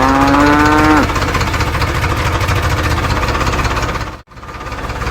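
Small motor running with a steady rattle, with a short call in the first second that rises in pitch and holds before dropping away. The sound cuts out for a moment about four seconds in.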